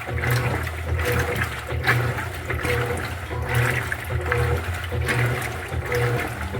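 Electrolux LED14 top-loading washing machine agitating a load in water: a steady motor hum with water sloshing in a regular rhythm, a little more than once a second.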